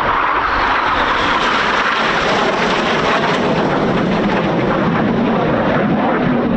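BAE Hawk T1 jet aircraft flying a display, their engines making a loud, steady jet noise.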